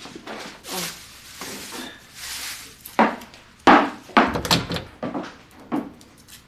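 Household clatter: a string of irregular wooden knocks and thuds, the loudest about three and a half seconds in, with softer noises earlier.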